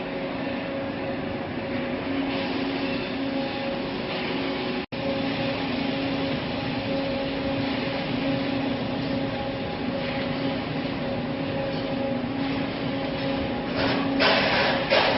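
Industrial microwave drying and sterilizing machine running: a steady mechanical hum with a couple of held tones. The sound drops out for an instant about five seconds in, and a louder burst of hiss comes near the end.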